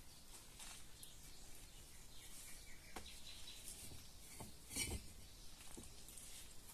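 Faint bird chirps over quiet outdoor ambience, with a few scattered light knocks, the loudest a little before five seconds in.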